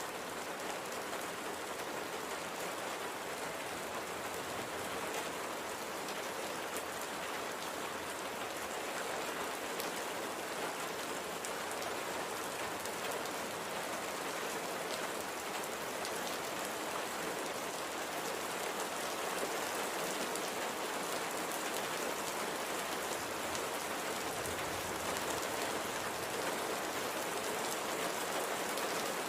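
Steady light rain falling, an even hiss with many small drop ticks on a surface.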